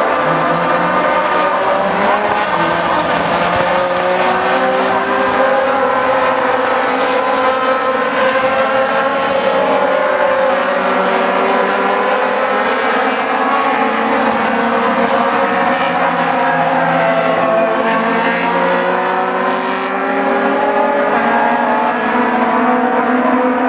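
A field of Aussie Racing Cars racing, several engines heard at once, their notes rising and falling as they accelerate and lift.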